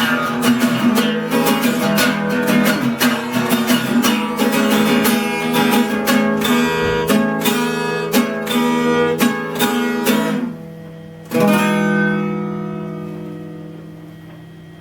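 Acoustic guitar being strummed in a quick rhythm, ending on one last chord a little after ten seconds in that rings out and slowly fades.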